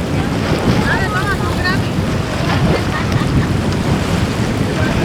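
Wind buffeting the microphone over the steady wash of surf, with faint distant voices about a second in.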